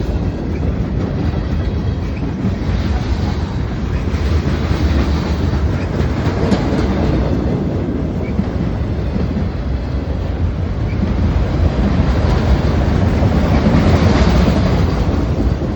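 Freight train of autoracks and mixed freight cars rolling past: a steady low rumble of steel wheels on the rails that swells a little twice.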